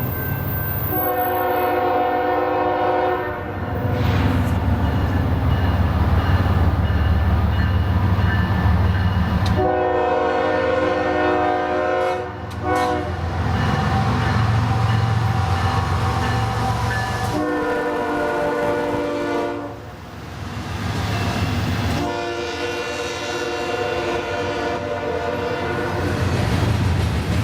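Freight diesel locomotive's air horn sounding four long blasts, the third a little shorter, the long-long-short-long pattern sounded for a grade crossing. The locomotive's diesel engine rumbles underneath throughout.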